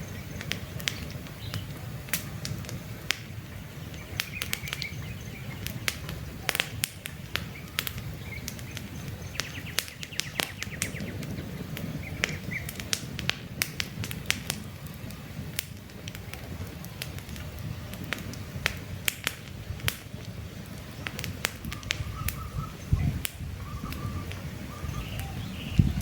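Wood campfire crackling: many sharp, irregular pops and snaps over a low, steady rumble of flames. Birds chirp briefly now and then in the background.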